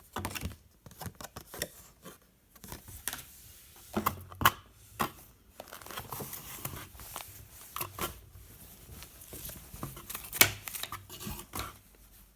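A cardboard box and its packaging being opened by hand: tearing, rustling and crinkling, broken by sharp knocks and clicks as the box and its contents are handled.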